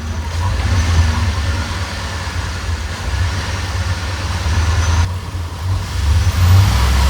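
A vehicle driving, heard from inside: a steady low engine rumble with road noise over it.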